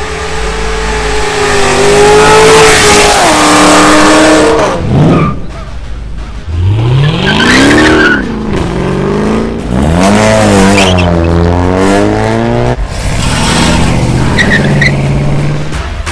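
Car engine revving hard, its pitch climbing and dropping several times, with tyre squeal from spinning wheels.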